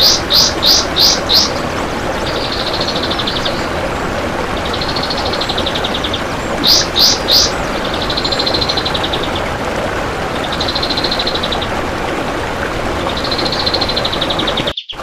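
Kapas tembak (olive-winged bulbul) singing: repeated short, fast trilled rattles, the dense 'besetan' of its song, broken by two quick runs of loud, clear whistled notes, one at the start and one about seven seconds in. A steady hiss runs under the song, and the sound drops out for a moment near the end.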